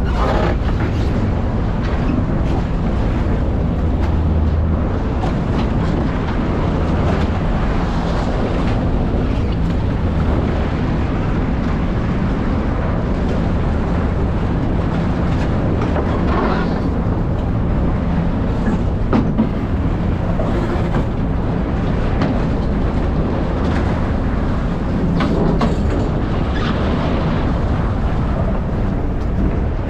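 Fishing boat's engine running steadily, a low drone under a constant rush of noise, with a few brief louder surges of noise.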